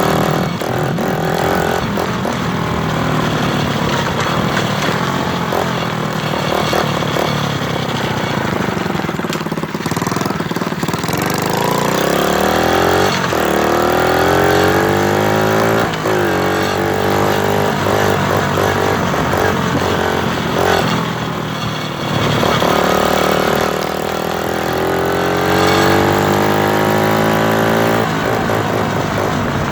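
Motorcycle engine running while being ridden. Its pitch climbs as it accelerates and then drops back, several times over, most plainly in the middle and again near the end. A steady rushing noise runs under it.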